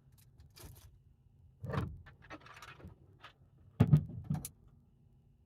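Gear being handled and set down in a small enclosed space: a few short clunks and knocks, the loudest about four seconds in, with a brief rustle between them.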